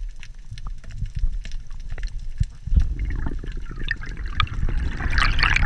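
Water sloshing and gurgling with many small clicks and knocks, the water noise growing fuller about three seconds in.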